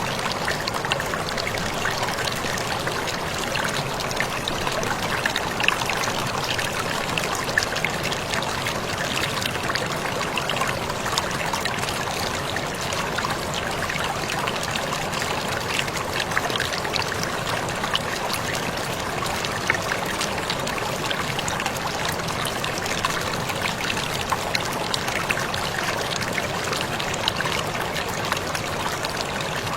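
Waterfall pouring steadily: an even rush of falling water with scattered small splashes and drips on top.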